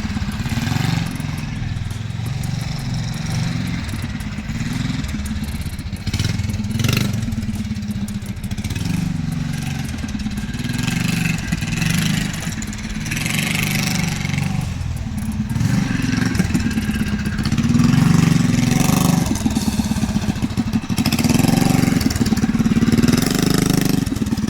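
Predator 212 Ghost single-cylinder four-stroke engine on a mini bike being ridden, its pitch rising and falling as the throttle is opened and eased off. It gets louder in the last third.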